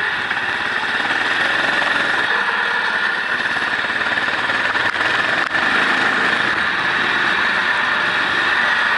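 Race vehicle's engine running steadily at speed, heard onboard, under a constant hiss. The level dips briefly once, about five and a half seconds in.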